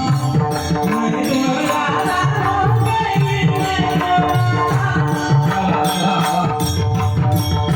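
Instrumental passage of a Marathi gavlan devotional song: tabla drumming with bending low strokes over steady held notes, with regular light percussion strokes.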